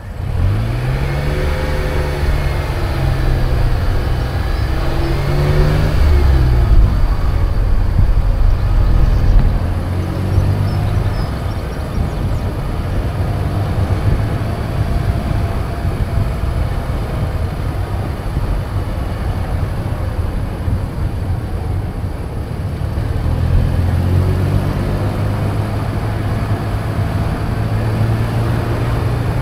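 Car engine pulling away and accelerating, its pitch rising and dropping back a few times in the first several seconds, then running steadily with tyre and road noise; it picks up again later on.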